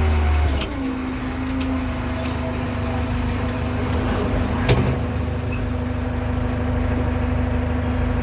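JCB backhoe loader's diesel engine dropping from higher revs to a steady idle in the first second, with a single sharp knock a little past halfway.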